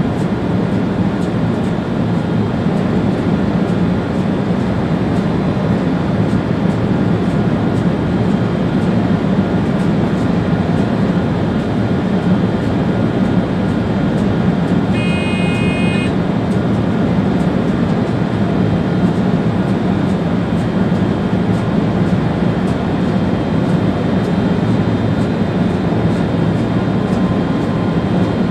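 Steady running noise inside the cab of an ÖBB Railjet train travelling at speed. About halfway through, a short electronic beep sounds once for about a second.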